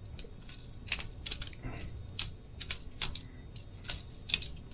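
Boker Plus balisong butterfly knife being flipped open and shut: its handles and blade clack against each other in about a dozen sharp, irregular clicks.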